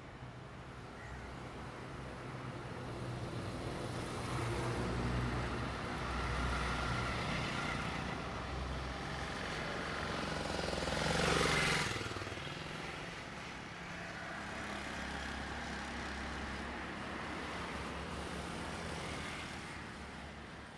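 Diesel train going by: a low engine drone builds up, is loudest about eleven seconds in as it passes with a rush of noise, then carries on more quietly.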